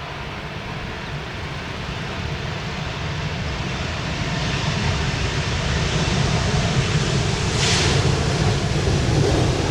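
Boeing 777-300ER's GE90-115B turbofans at takeoff thrust: a deep roar that grows steadily louder.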